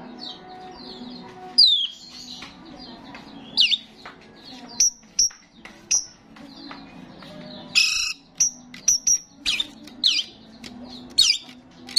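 Starling singing: a series of sharp, high whistled notes and chirps, many sweeping downward, coming every half second to a second, with one harsher rasping call about eight seconds in.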